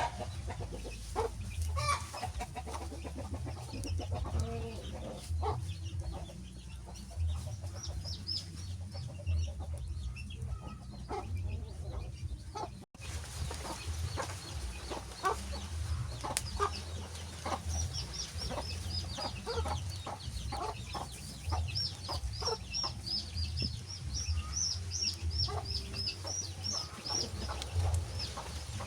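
Crackling wood fire, with a dense scatter of small pops and snaps over a low steady rumble; the sound cuts out for an instant about halfway through.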